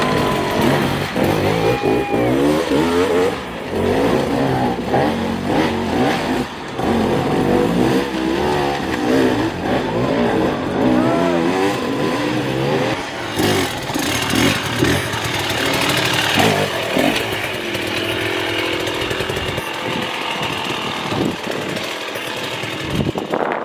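Hard enduro dirt bike engines revving, the pitch rising and falling rapidly over and over as the riders work the throttle.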